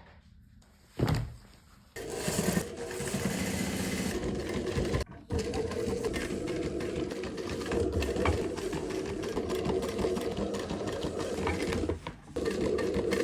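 Sewing machine stitching, running steadily with a brief stop about five seconds in and another near the end. A single knock comes about a second in, just before it starts.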